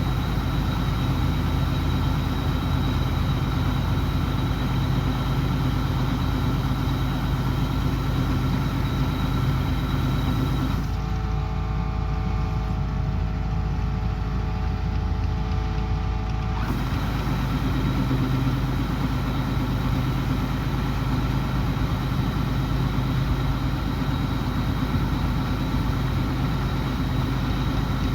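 Kubota combine harvester engine running steadily under harvesting load, a continuous drone with steady tones. For about five seconds in the middle the sound turns duller, with a different set of steady tones, before the same drone returns.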